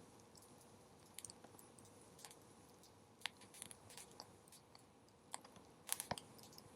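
Wood bonfire crackling quietly, with scattered sharp pops and a small cluster of louder pops about six seconds in.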